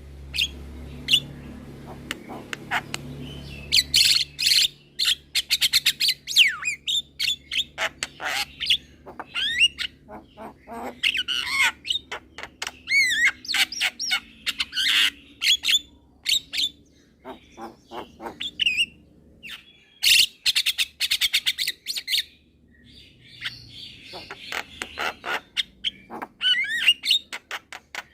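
Young Javan myna calling busily: rapid runs of sharp clicks, harsh squawks and gliding whistled chirps, in bursts with short pauses between them.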